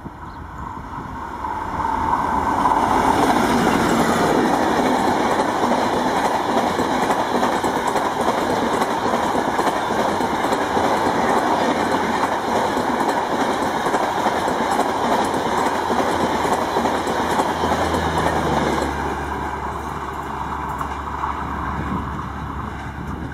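Diesel-hauled express train with an LHB coach rake passing at speed, about 100 km/h, with rushing wheel-and-rail noise and clatter. The noise builds up over the first two seconds, holds steady for about seventeen seconds as the coaches go by, then drops off as the train recedes.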